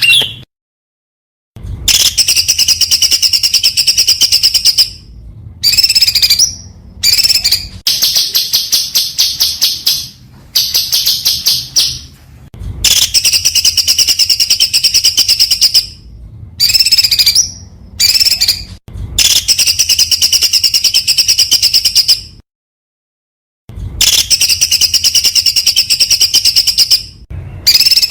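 A songbird giving very fast, high-pitched rapid-fire trills ('tembakan') in bursts of one to four seconds. The bursts are separated by abrupt silent gaps.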